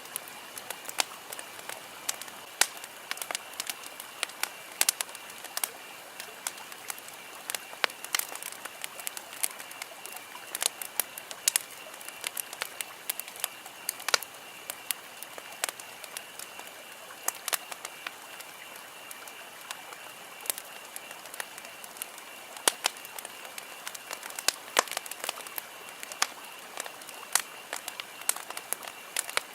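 Wood campfire crackling: irregular sharp pops and snaps over a steady soft hiss, with a faint steady high-pitched tone underneath.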